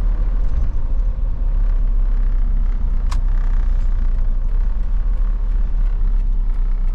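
Isuzu cab-over box truck heard from inside the cab while driving: a steady low rumble of engine and road noise. A single sharp click sounds about three seconds in.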